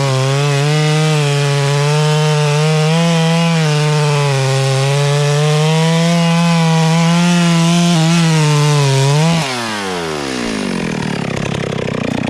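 Chainsaw at full throttle cutting wood, its engine note holding high and sagging slightly under load. About nine and a half seconds in, the throttle is released and the engine winds down toward idle.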